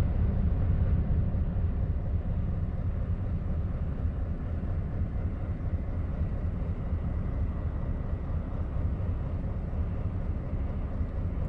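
Scania V8 truck engine idling steadily with a low rumble.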